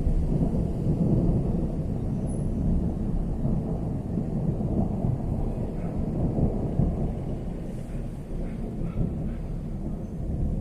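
Long rolling rumble of thunder, loudest near the start and slowly dying away.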